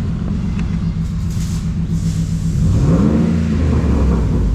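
Dodge Hellcat's supercharged 6.2-litre Hemi V8 running at idle, revved once about two and a half seconds in, its pitch rising and holding briefly before settling. It is running with its exhaust freshly welded back together at the joint that had come apart.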